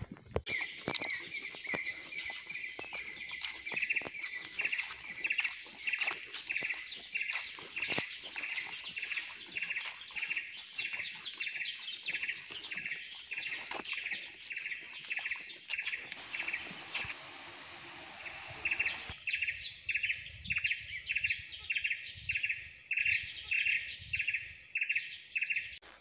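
Tropical forest ambience: a bird's call repeated about twice a second, each note a short high trill, over a steady high hiss of insects.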